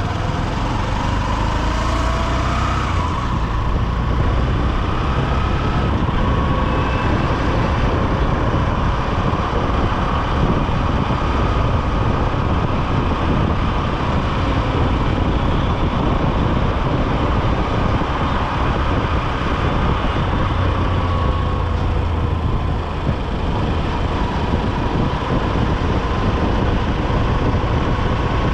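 Honda SP125 motorcycle's single-cylinder engine running steadily on the move, heard from a helmet-mounted microphone amid continuous road traffic noise.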